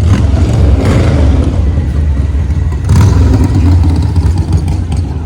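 A classic car's engine rumbling loudly as it drives past, with two brief surges of revving about a second in and about three seconds in.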